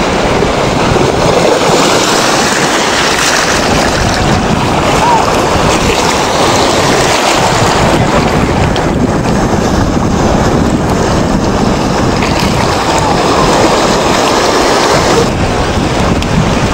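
Sea surf washing continuously, with wind buffeting the microphone; a loud, steady rush.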